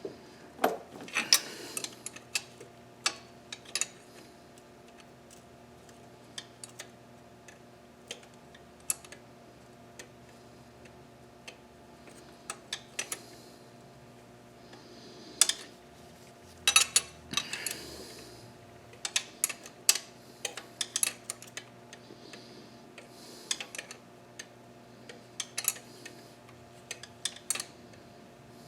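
Irregular metallic clicks, clinks and taps of hand tools and engine parts being handled, some in quick clusters, over a faint steady hum.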